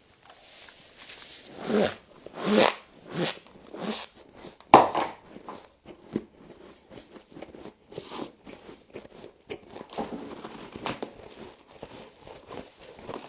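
Frost being bitten and chewed close to the microphone: a string of uneven crunches, the loudest just before the halfway point, then smaller crackles.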